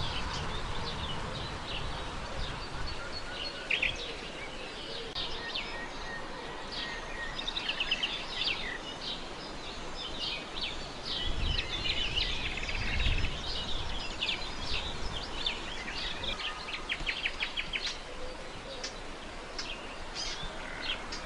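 Several songbirds chirping and singing, with a few rapid trills, over a steady low background noise.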